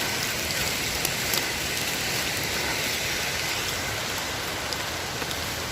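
Steady rushing noise of the waterfall's falling water mixed with rain, with a few faint ticks.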